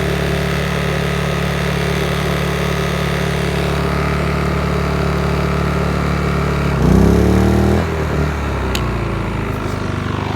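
Briggs & Stratton P2200 inverter generator engine running steadily. About seven seconds in it bogs down and gets louder as a load hits it, then revs back up over about a second and settles at a new steady speed.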